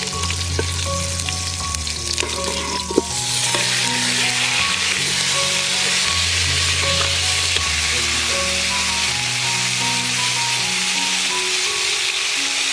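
A whole roasted duck going into a hot pot: light clicks of utensils on the pot, a knock about three seconds in, then loud, steady sizzling as the duck fries. Background music with slow bass notes plays underneath.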